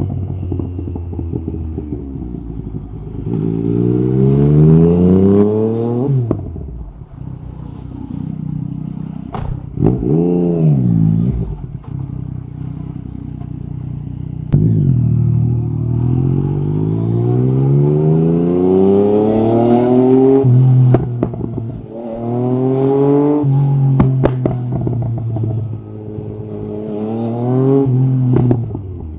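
Yamaha MT-09 SP's inline three-cylinder engine through an Akrapovic carbon exhaust, accelerating hard several times with the revs climbing, then dropping away sharply as the throttle closes. There is a quick blip of the revs around ten seconds in, and a few sharp pops and crackles on the overrun.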